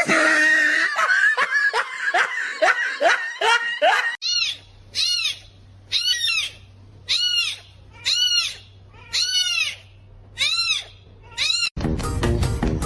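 An animal giving high-pitched calls: for about four seconds a quick run of short rising squeaks, then about ten separate rise-and-fall cries spaced evenly, about one every three quarters of a second. Music starts abruptly near the end.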